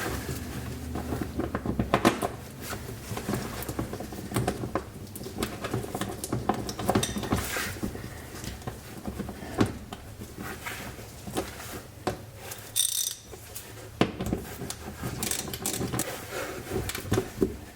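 Plastic under-engine skid plate being handled and fitted back into place under a pickup truck: irregular knocks, scrapes and clicks of plastic and bolts being worked by hand and with hand tools.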